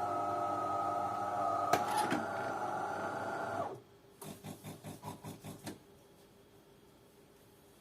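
DeLonghi automatic coffee machine at work: a steady motor hum that cuts off sharply a little under four seconds in, then a short run of quick pulses, about four or five a second, for a second and a half before it goes quiet.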